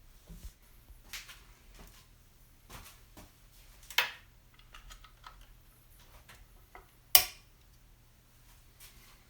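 Scattered light clicks and taps of small hard objects being handled, with two sharper knocks about four and seven seconds in.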